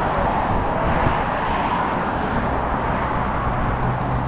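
Steady street traffic noise, with a low engine hum joining in about halfway through.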